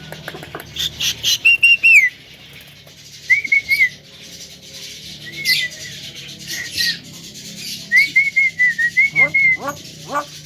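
Javan myna giving several short whistled phrases, the longest near the end, with sharp clicking chatter between them.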